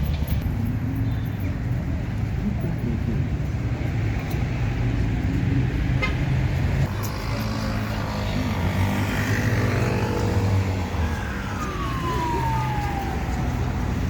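City street ambience: a steady low rumble of road traffic from passing cars, with a single click about halfway and a short falling tone near the end.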